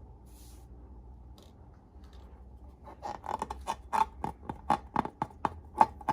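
A fast, irregular run of about a dozen sharp creaks, starting about three seconds in after a near-quiet start.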